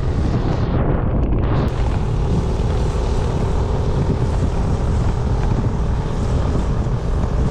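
Wind buffeting the microphone over the running of a motor scooter and its tyres on the road while riding, with a faint steady engine hum.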